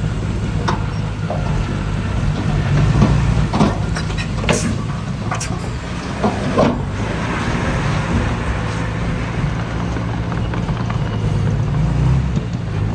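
Diesel engine of heavy earthmoving machinery running steadily, with several sharp knocks and clanks scattered through it.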